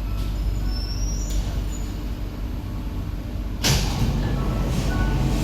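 SMRT C151B train standing at a platform, its onboard equipment giving a steady low hum. About two-thirds of the way through comes a sudden loud hiss of released compressed air, which then trails off.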